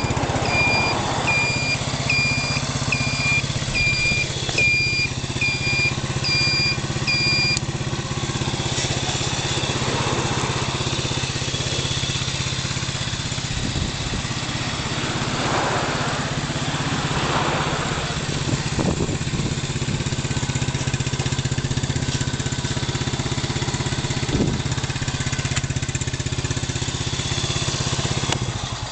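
Speed Industries SPD100 quad buggy's engine idling steadily after being started. A high electronic beep repeats about twice a second over the first seven seconds or so, then stops.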